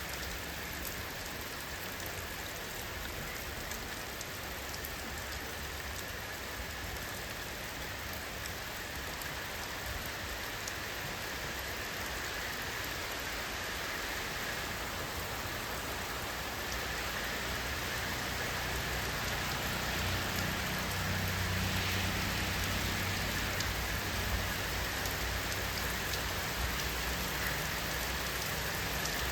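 Steady rain falling: an even hiss with fine pattering drops. A low rumble swells in the second half.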